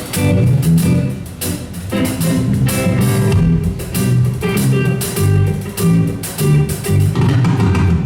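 Live band playing the instrumental intro of a pop song: a strummed guitar keeping a steady rhythm over low bass notes.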